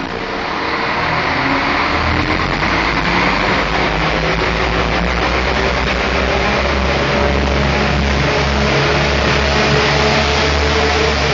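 Diesel multiple unit's underfloor diesel engines running under power, with a low steady hum that builds over the first two seconds and then holds.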